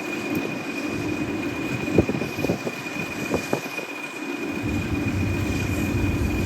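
Train on a heritage railway line, a steady running rumble with a few sharp knocks and clicks about two to three and a half seconds in.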